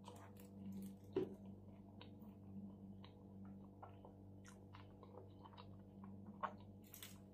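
Faint close-up chewing of a juicy shawarma: a string of small wet mouth clicks and smacks, the sharpest about a second in.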